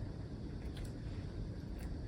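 Close-miked eating sounds: a person chewing a soft glazed doughnut, a low steady mushing with a couple of faint clicks of the mouth.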